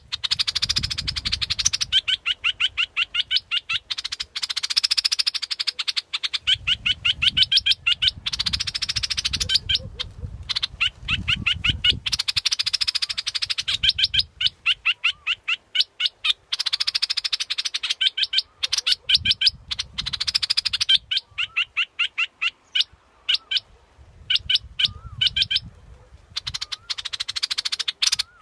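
Bulbul song (the Thai 'dok taeng' bulbul, a decoy call): phrases of rapid, sharp chattering notes, about eight to ten a second, repeated again and again with fuller bursts in between. A low rumble comes and goes underneath.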